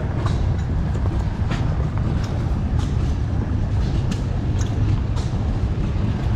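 Steady low rumble of a running vehicle, with light scattered ticks and rattles over it.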